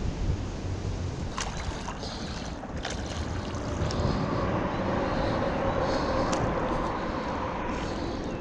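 Water sloshing around a paddleboard, with a couple of sharp knocks and wind on the microphone, as the rider nearly loses his balance. A steady hum comes in about halfway through.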